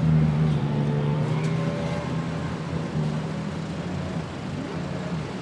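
An engine running steadily with a low drone, easing off slightly toward the end.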